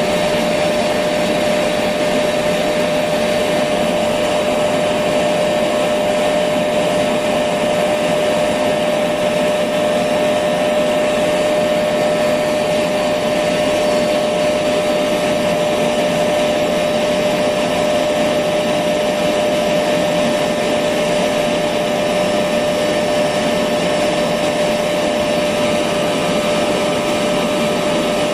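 Electric vacuum cleaner running steadily, a constant rushing hiss with a steady whine running through it.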